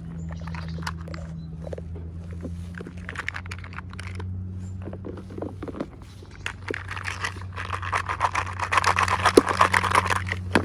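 Small items and plastic packaging being handled: scattered light clicks and taps, then a denser crackling rustle over the last few seconds, over a steady low electrical hum.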